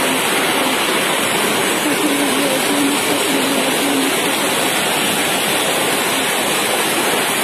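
Heavy rain and hail coming down in strong wind, a loud, dense, unbroken noise at a steady level.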